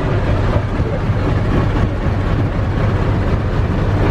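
A motorboat's engine running steadily under way, a low drone with a broad rush of noise over it.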